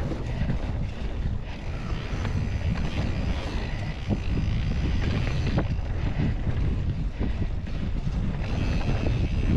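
Wind buffeting the microphone while a mountain bike rolls over rough trail, with steady tyre noise and frequent small knocks and rattles.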